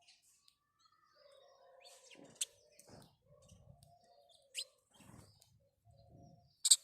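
House sparrows chirping: three short, sharp chirps about two seconds apart, the last one the loudest, near the end.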